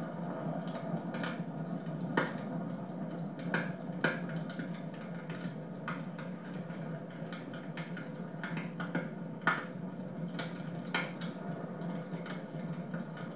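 Wood fire crackling in a fireplace: irregular sharp snaps and pops over a steady low background noise, a few louder pops standing out.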